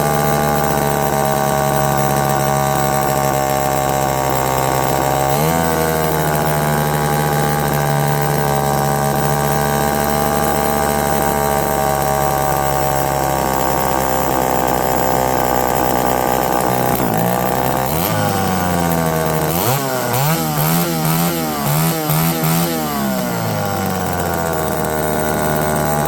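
Homelite EZ two-stroke chainsaw engine running steadily on the bench with its air filter off. It revs briefly about five seconds in, and from about two-thirds of the way through the throttle is blipped in a string of quick revs before it settles again. The carb's low-speed mixture was just opened, and the saw runs well but stumbles a little at the bottom.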